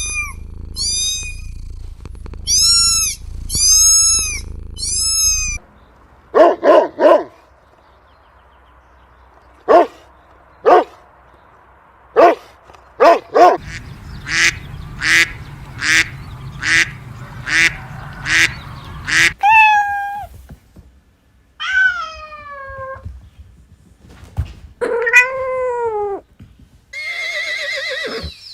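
Cats meowing: many short, pitched calls in several bursts, including a quick run of about two calls a second partway through.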